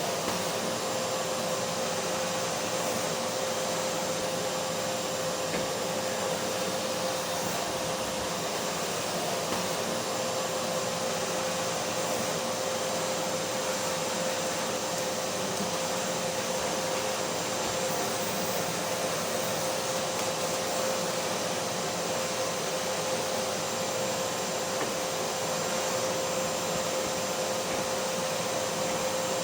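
Vacuum cleaner motor running steadily, a constant rushing of air with a steady whine and no change in pitch or level.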